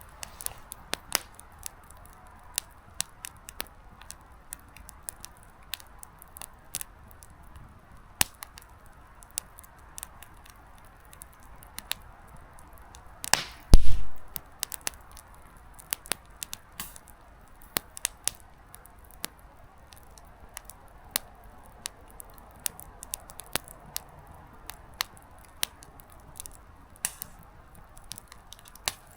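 Small wood campfire crackling, with scattered sharp pops of burning firewood over a faint hiss. About halfway through comes one much louder, short thump.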